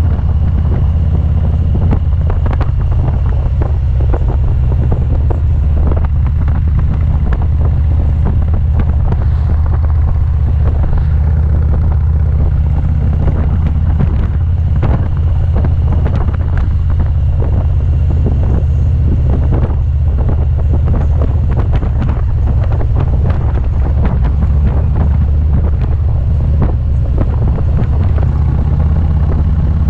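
Motorcycle riding at a steady speed, its engine a continuous low rumble, with wind buffeting the microphone hard and constantly.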